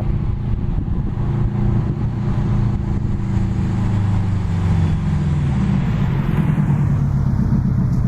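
2004 Subaru WRX's turbocharged flat-four running through a catless aftermarket Spec D exhaust as the car drives, its engine note climbing gently in pitch over the second half.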